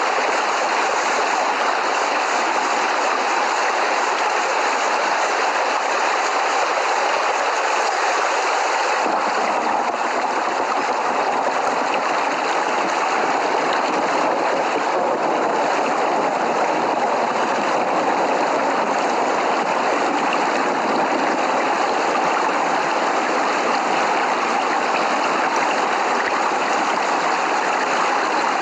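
Steady heavy rain, an even unbroken hiss; about nine seconds in it becomes deeper and fuller and stays that way.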